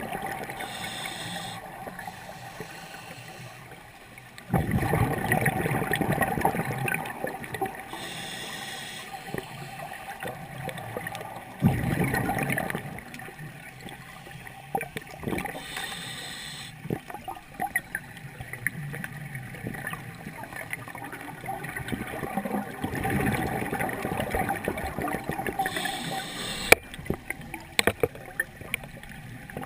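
A scuba regulator underwater: a short hissing inhale every seven or eight seconds, followed by a loud rush of exhaled bubbles. A few sharp clicks near the end.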